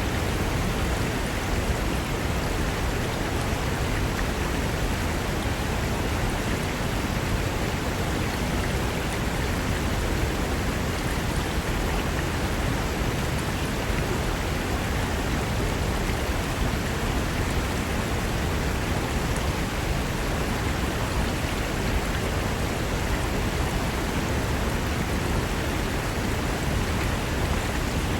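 Fast mountain river rushing over rocks: a steady, dense roar of white water.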